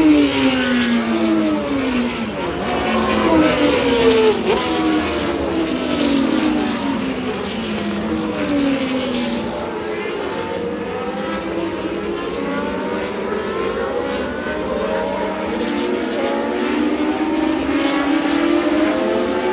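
Several historic Formula One cars passing one after another at speed. Their engine notes overlap and each falls in pitch again and again.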